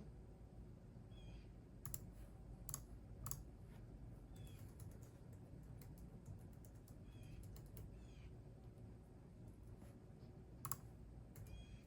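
Faint, sparse computer-keyboard typing: scattered key clicks, a few of them louder, with a bird's short falling chirps repeating every few seconds in the background.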